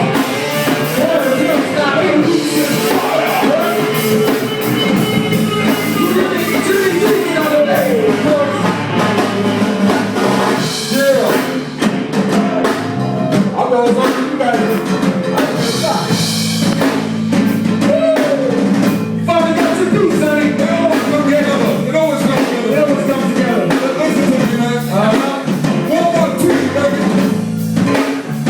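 Live rock band jamming: drum kit, electric bass and guitar playing together, with a voice singing over them.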